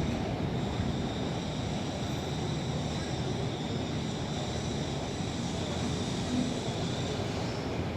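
Lisbon funicular car running, giving a steady rumble with a faint steady high whine.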